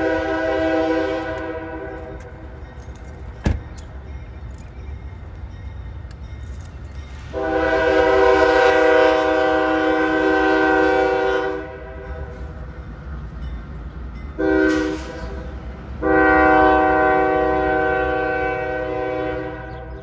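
A CSX freight locomotive's multi-chime air horn sounding a chord in blasts, over the low rumble of the diesel engines: a blast ends early, then one long blast, one short and another long. Long, long, short, long is the standard warning for a grade crossing.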